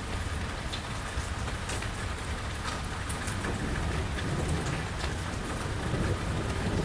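Steady rain falling, with scattered sharp drips tapping on hard surfaces and a low rumble underneath.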